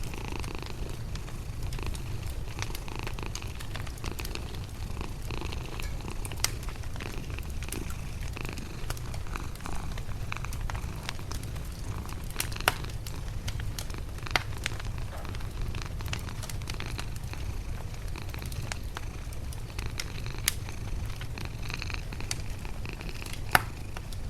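A sleeping cat purring, a steady low continuous rumble, over a fireplace fire crackling with sharp scattered pops. The loudest pop comes near the end.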